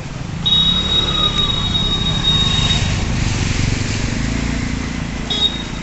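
Road vehicles running with a steady low rumble, and a high, steady squeal held for about two seconds soon after the start, then sounding again briefly near the end.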